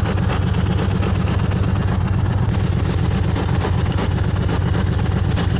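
Harley-Davidson V-twin motorcycle engine running steadily at road speed, with a low, rhythmic pulsing exhaust note and wind rush over it.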